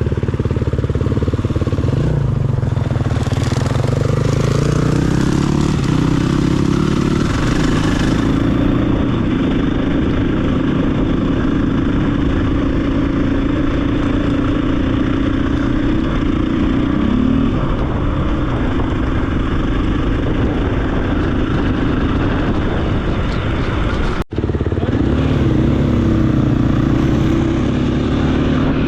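2023 KTM 500 EXC-F's single-cylinder four-stroke engine running under way on a dirt bike, its pitch rising as the rider accelerates a few seconds in, then holding and shifting with the throttle. The sound breaks off for a moment a few seconds before the end.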